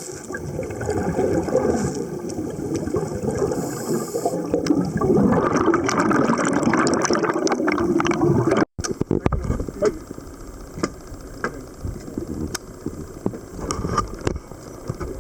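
Underwater camera sound during a scuba dive: a gurgling rush of exhaled regulator bubbles and water noise, which swells partway through and then gives way at a cut to a quieter underwater hiss scattered with small sharp clicks.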